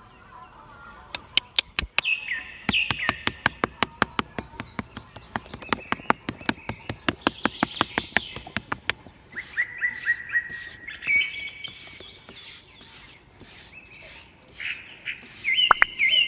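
Small birds chirping over a fast, even run of sharp clicks during the first half, then a series of short hissing pulses under more chirps in the second half.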